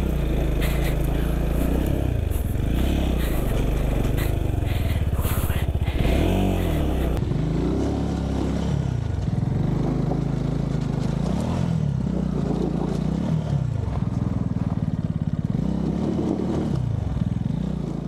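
A Jettor Snake 250 trail motorcycle's engine revving up and down again and again as it labours over loose stone and sand, where the bike sinks and the tyres find little grip. Stones scrape and clatter over the first several seconds. The engine fades out at the end.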